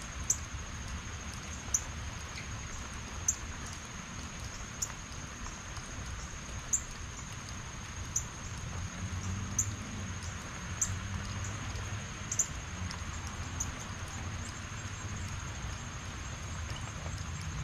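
Steady heavy rain falling, with a sharp tick about every second and a half and a thin high steady tone throughout. A low rumble comes and goes in the second half.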